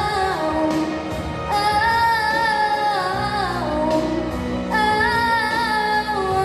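A young female voice singing long held notes without clear words, gliding between pitches, over a pop backing track.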